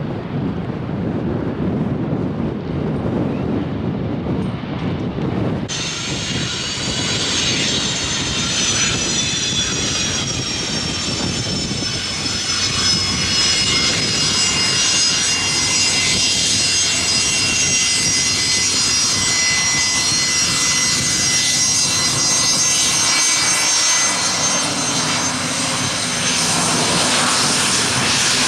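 Wind rumbling on the microphone, then about six seconds in a jet airliner's engines cut in with a loud whine of several high tones that slowly falls in pitch, over a steady engine rumble.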